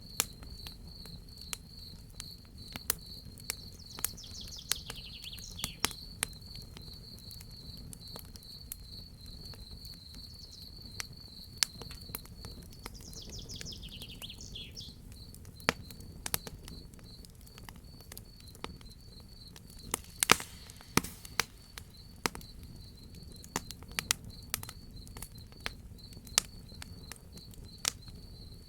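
Crackling fire, with irregular sharp pops over a low steady rumble, the densest pops about two-thirds of the way in, under crickets chirping in a steady high trill. Two short calls slide downward, one early and one near the middle.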